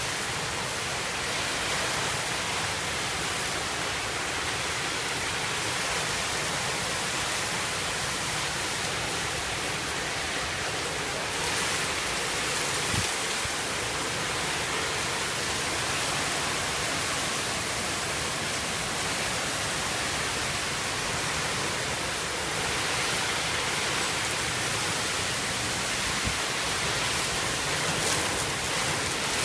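Heavy tropical-storm rain pouring down hard in a steady hiss, with a couple of brief knocks.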